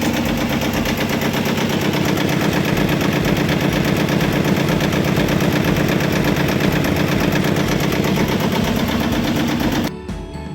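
The boat's engine running, heard up close, with a rapid, even mechanical chatter over a steady low drone. It cuts off abruptly near the end.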